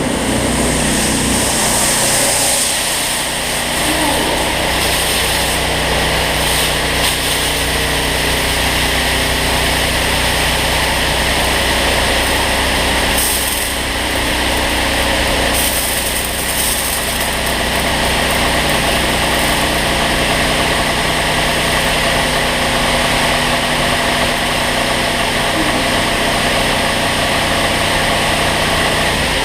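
Automatic car wash on a water-only rinse pass: steady spray of water jets hitting a person standing in the bay, over the steady hum of the wash's motors and pumps.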